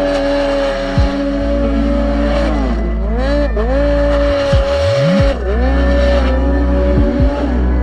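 Snowmobile engine running hard at high revs, its pitch dipping four or five times as the throttle is eased off and climbing straight back up.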